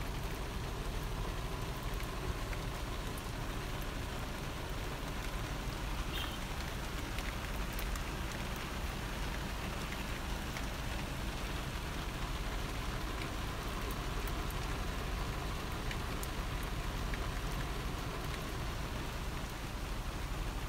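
Steady rain falling on a car's windshield and body, heard from inside the car, with scattered single drop hits standing out.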